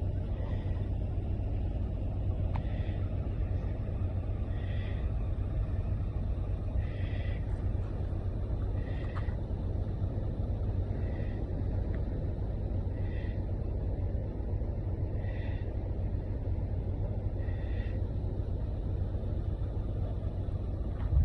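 Truck engine idling with a steady low rumble. A short, high beep repeats about every two seconds over it.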